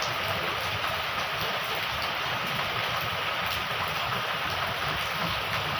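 Heavy rain falling steadily: a dense, even hiss with scattered drop hits.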